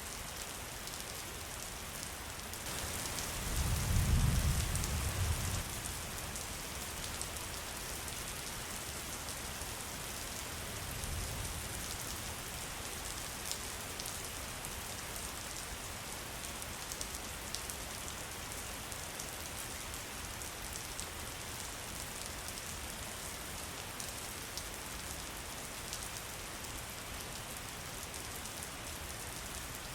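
Steady rain, an even hiss with scattered drop ticks. A louder low rumble swells and fades about three to five seconds in, with a weaker one near eleven seconds.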